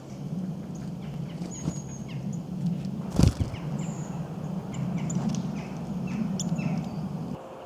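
Small songbirds chirping and calling in quick short notes over a steady low hum, with one loud thump about three seconds in.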